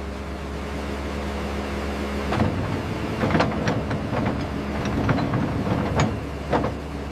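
Engine of heavy construction machinery running steadily. From about two seconds in, a string of sharp clanks and knocks sounds over it.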